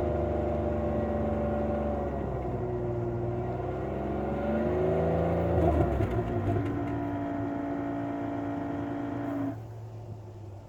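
A 2002 Buick LeSabre's 3.8-litre 3800 Series II V6 running with the revs being varied: the engine note falls, climbs again about five seconds in, holds, then drops back toward idle near the end.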